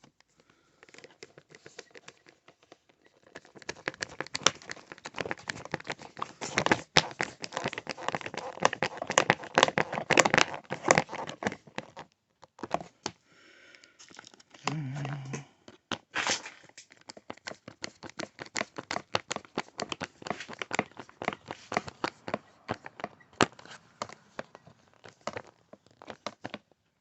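Dense, irregular crinkling and clicking of plastic being handled, a bag or plastic parts rustled and worked by hand, with a break in the middle.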